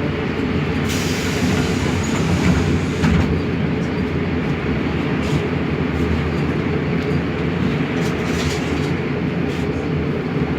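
Mercedes-Benz OMC-1421 bus's diesel engine running steadily while the bus is under way, with a few sharp rattles here and there.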